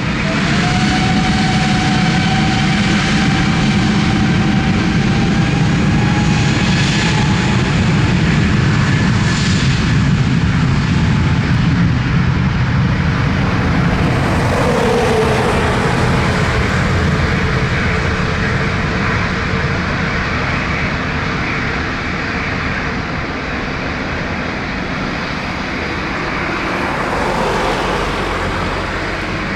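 Jet airliner engines running steadily and loudly, a rushing noise with whining fan tones. One whine rises slightly early on and another falls about halfway through.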